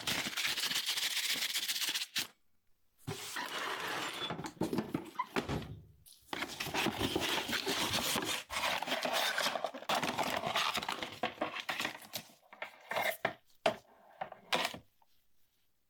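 Rustling and scraping handling noises in long stretches, then a run of light clicks and knocks near the end.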